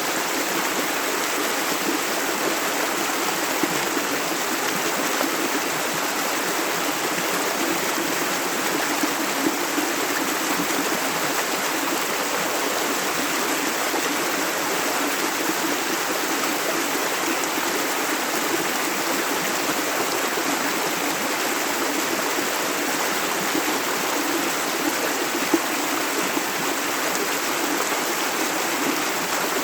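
Steady rush of a flowing river or stream, water running over stones.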